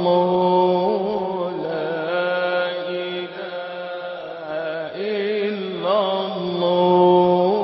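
Sufi dhikr chanting: long, held vocal notes with wavering ornaments over a steady low drone.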